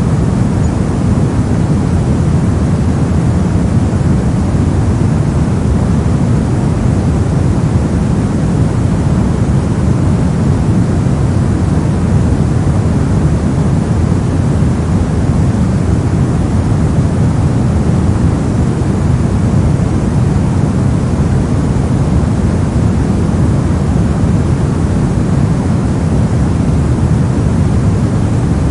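Generated noise track: a constant, unchanging hiss with no events in it, heaviest in the low range so it sounds like a deep rush.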